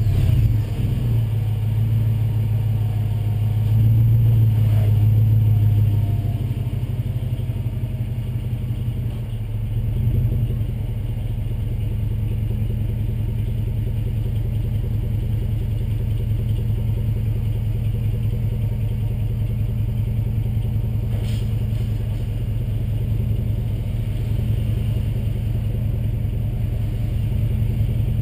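2005 Jeep Grand Cherokee's 5.7L Hemi V8 through a Borla exhaust, idling just after being started. It is louder for the first six seconds or so, then settles to a steady, even idle.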